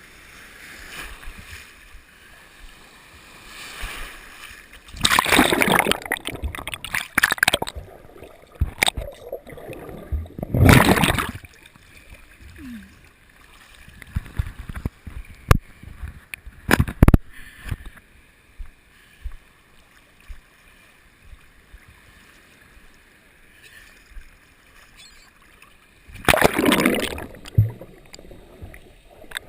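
Seawater splashing and rushing against a GoPro camera. There are loud rushes of water about five seconds in, around ten seconds in, and near the end, with a few sharp knocks in between.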